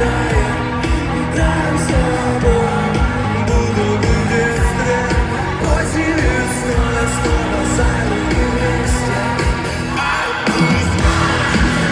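Live rock band playing at full volume through a large arena's sound system, with a steady drum beat and singing voices, recorded from the crowd.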